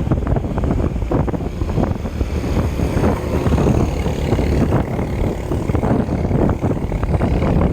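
Wind buffeting the microphone with steady road rumble while riding, a dense low rumble broken by rapid irregular gusts.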